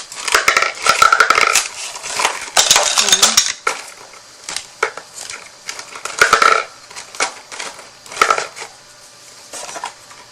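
Plastic markers clattering and clicking against each other and the wooden marker storage box as they are handled, in several bursts with short pauses between.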